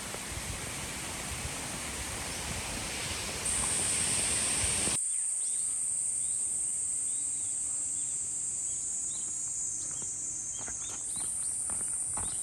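Insects buzzing in a steady, high-pitched drone. For the first five seconds a broad rushing noise lies under it and then cuts off abruptly, leaving the insect drone and a few faint footsteps near the end.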